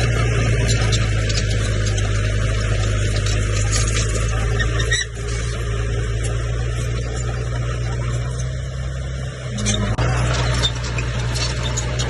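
Komatsu crawler bulldozer working: its diesel engine runs with a steady low drone while the steel tracks squeal and clatter. The engine note drops briefly about five seconds in and again near the end.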